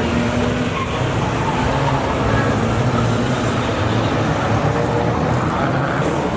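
Car engines running at a steady pitch, with a continuous noise of traffic.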